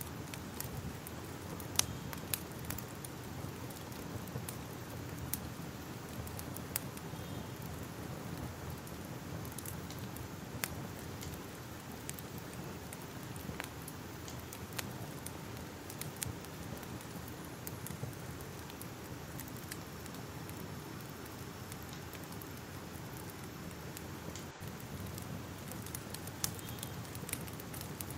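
Crackling fire: a steady low rush with sharp, irregular pops and snaps scattered throughout.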